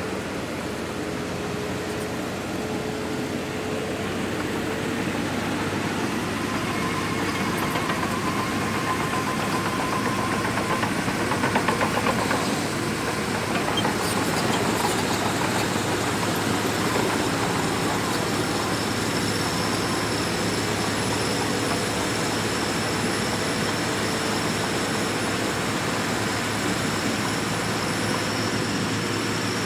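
Shantui DH17C2 bulldozer working sand, its engine running steadily under load. The noise swells briefly a little over a third of the way in, and a thin high whine joins in the second half.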